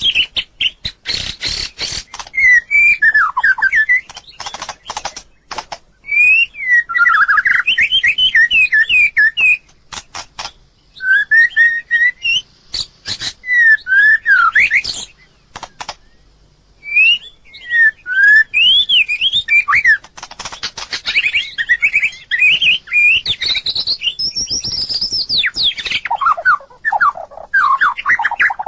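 White-rumped shama singing: phrases of swooping, fluting whistles separated by short pauses, with runs of rapid clicking notes mixed in.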